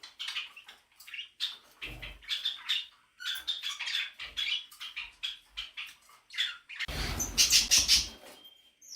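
Parrots chirping and squawking in short, repeated calls, with a loud rush of wing flapping about seven seconds in as a superb parrot chases off a king parrot.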